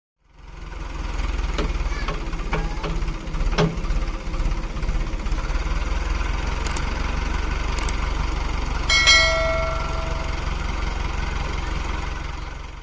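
Tractor's diesel engine running steadily, with a few sharp metallic clanks in the first few seconds and one ringing metal clang about nine seconds in.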